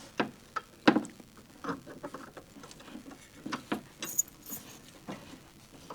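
Scattered light metallic clicks and taps as a breaker bar is fitted in place on a seized engine, ready to try turning it over.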